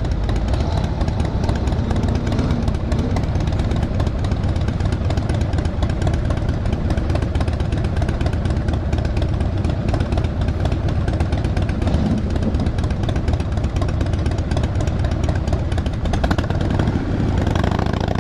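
Motorcycle engine running steadily with a dense low rumble.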